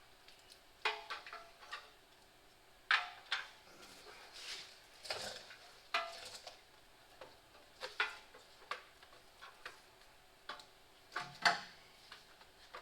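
Irregular clicks, taps and light clatter of headlight parts and hardware being handled and fitted together by hand, about a dozen sharp knocks spread unevenly.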